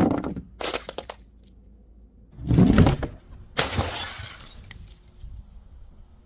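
Glass bottle being crushed and breaking: a brief crackle near the start, then a heavy crunch about two and a half seconds in and a bright shatter about a second later that fades into scattered tinkling of fragments.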